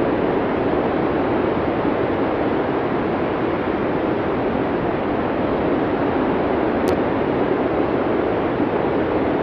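Steady blizzard wind, an even rushing noise that holds at one level without gusts.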